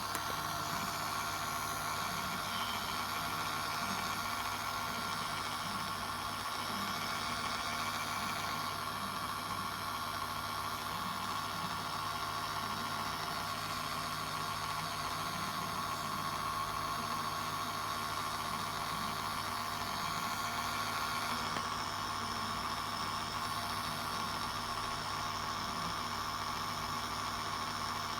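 Toy washing machine's small motor running with a steady whir.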